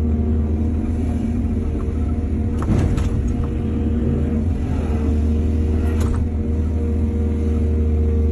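Excavator's diesel engine running steadily, a loud low drone, with two short clatters about three seconds in and again around six seconds.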